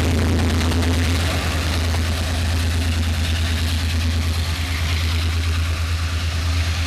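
A train led by the CK124 steam locomotive runs with a steady low rumble and a hiss of noise above it.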